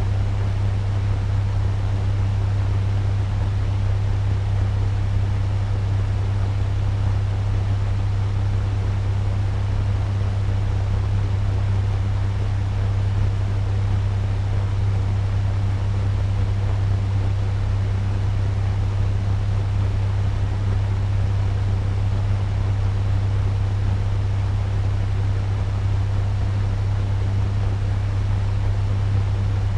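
Turbo fan running steadily at medium speed: a constant low hum under an even rush of air.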